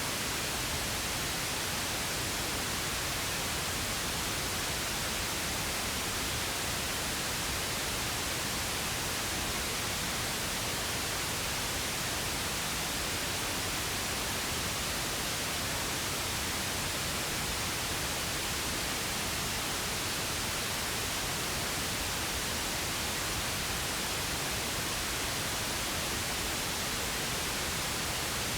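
Steady synthetic pink noise: an even, unchanging hiss spread across the whole range, with no other sound.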